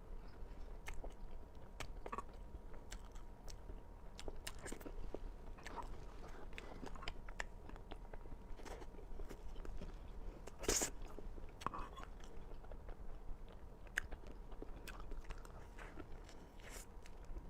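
A person chewing and biting cake, with many small wet mouth clicks and one louder click a little after the middle.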